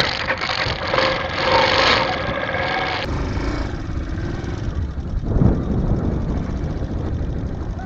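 Motorcycle engine running during a ride. A loud rushing hiss covers the first three seconds and cuts off abruptly, leaving the steady low engine sound.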